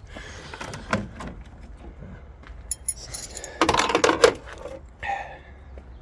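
Metallic clinking and rattling of parts and tools being handled while a car battery is removed, with a loud burst of clatter about four seconds in.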